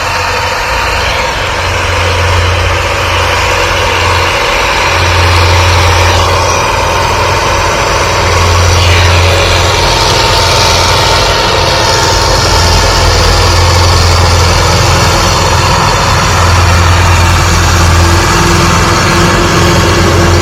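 Belarus tractor's diesel engine running steadily with a loud low drone that swells and eases in level.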